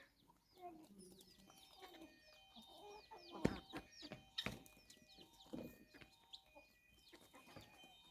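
Aseel chickens clucking softly amid many quick, high chirps, with two sharp knocks around the middle, the first the loudest.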